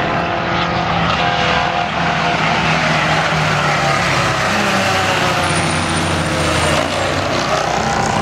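Several vintage car engines running loudly, their pitch rising and falling as they are revved.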